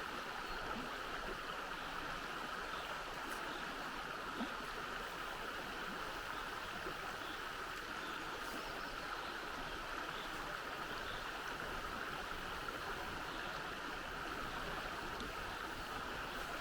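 Steady rush of flowing river water, unbroken throughout, with a few faint ticks over it.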